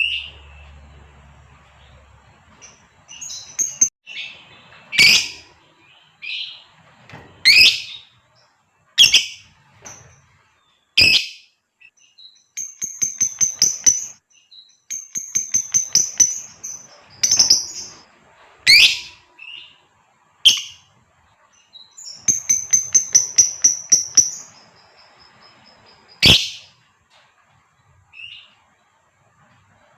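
Female lovebird calling: single sharp, shrill screeches every second or two, broken by three rapid chattering runs of about eight chirps a second, the first beginning about a third of the way in and the last about two-thirds in.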